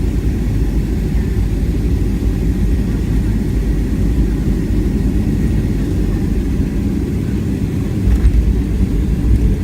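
Boeing 737-700 heard from inside the passenger cabin during landing: a steady low rumble of engines and airflow, which grows louder about eight seconds in.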